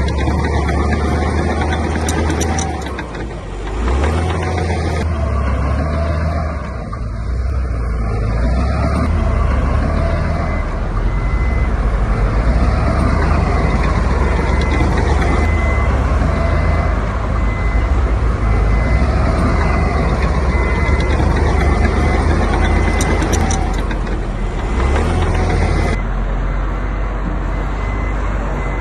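Heavy diesel construction machinery running under load, with a back-up alarm beeping steadily from about a third of the way in.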